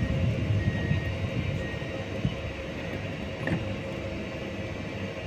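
Train rumbling at the station platform, with irregular low thumps in the first couple of seconds before it settles to a steadier, quieter rumble.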